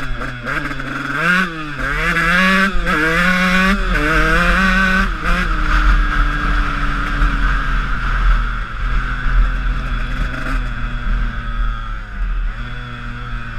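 Honda CR125 two-stroke single-cylinder dirt bike being ridden: several quick rises and drops in revs for the first five seconds or so, then a long, slow fall in pitch as the engine winds down, picking up again near the end. A steady low rumble of wind on the microphone runs underneath.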